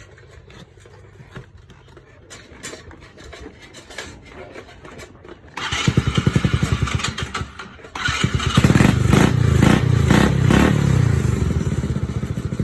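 Cold Jeep engine being started: after a few seconds of faint clicks, the starter cranks it with even pulses from about halfway in, and about two seconds later it catches and keeps running loudly.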